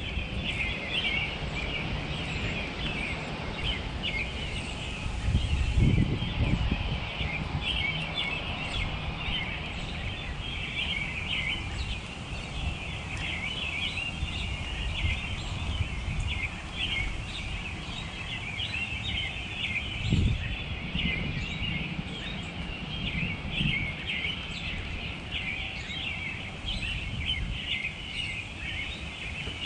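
Small birds chirping continuously, many short overlapping calls, with low rumbles about six seconds in and again around twenty seconds.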